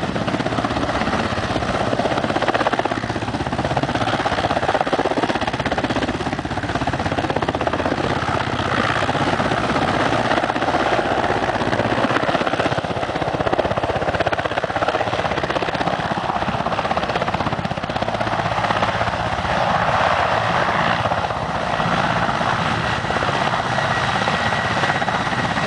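Helicopter running steadily under load, its rotor and turbine engine making a continuous loud noise, with a thin high whine coming in near the end.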